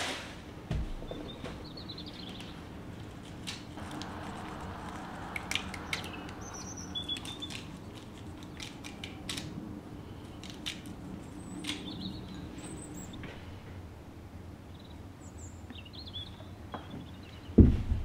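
Small birds chirping outside over a quiet room hum, with light taps and clicks as a cardboard salt box and a small glass bowl are handled, and one loud thump near the end.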